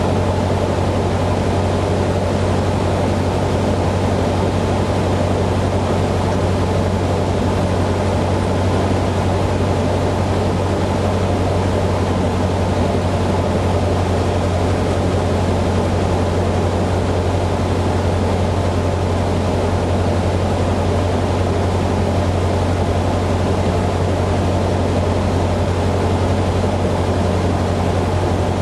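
Cessna 150's four-cylinder Continental O-200 engine and propeller running steadily in flight: a constant low drone with a rushing noise over it, with no change in power.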